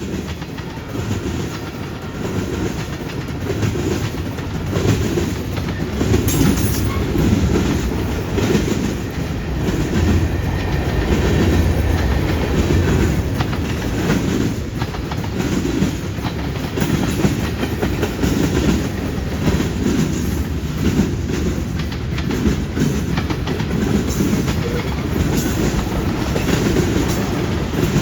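Canadian National freight train passing close by, its wheels clattering over the rail joints in a steady, rhythmic clickety-clack.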